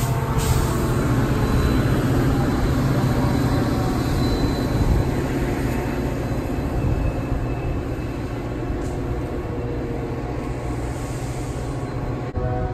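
Train running by, the steady low rumble of its diesel locomotive.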